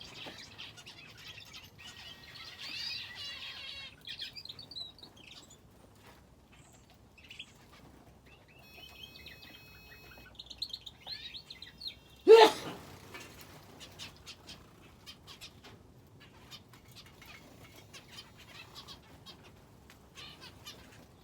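Small cage birds, finches and a canary, chirping and twittering in an aviary, with a few short trills and quick fluttering and clicking. About twelve seconds in there is one loud, sudden sound, much louder than the chirps.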